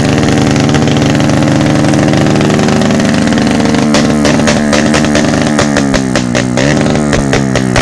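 Motorcycle engine running, steady at first, then rising and falling in pitch as it is revved from about halfway through.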